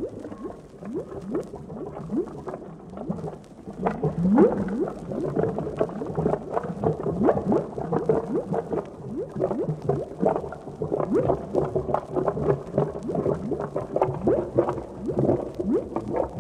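Thick liquid bubbling, a dense, unbroken run of short bubble blips, each rising quickly in pitch, with one larger, deeper bubble about four seconds in.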